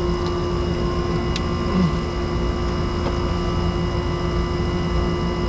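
Steady electrical-mechanical hum over a low rumble, holding one strong constant tone, with a couple of faint ticks.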